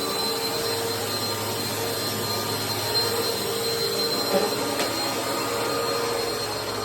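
Bissell PowerTrack upright vacuum cleaner running steadily on a small rug, a dense rushing noise with a steady high whine, and a brief knock about four seconds in.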